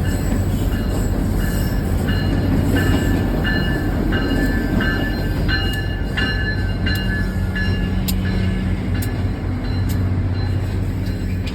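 Train rolling by: a steady low rumble of wheels on rail, with short high metallic squeals repeating about once or twice a second and a few sharp clicks near the end.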